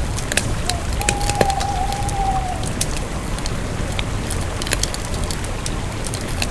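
Campfire burning with a steady low rumble and frequent sharp crackles and pops of burning wood. About a second in, a thin whistling tone holds for about a second and a half, sinking slightly in pitch at the end.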